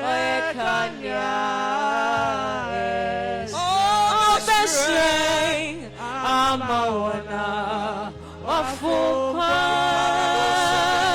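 Gospel song: voice singing long held, wavering notes over a steady bass line.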